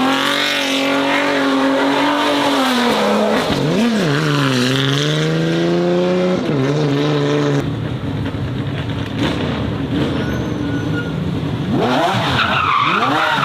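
Racing car engine running at high revs, its pitch dropping and climbing again as the driver lifts and changes gear. About halfway through the sound changes abruptly to a rougher-sounding car engine, which climbs in revs near the end.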